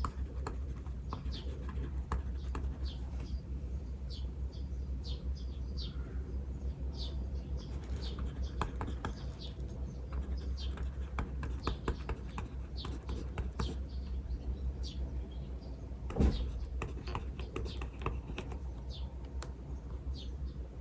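Small birds chirping in short high calls throughout, over the scratch and tap of a pen writing on paper and a steady low hum. One louder knock about three quarters of the way through.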